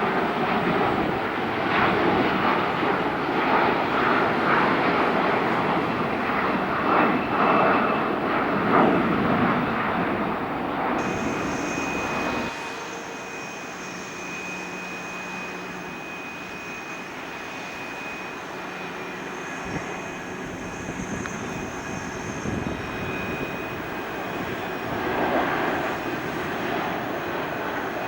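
Jet airliner engines running with a loud, wavering roar that drops suddenly about halfway through to a quieter whine carrying a steady high tone, then swells again near the end.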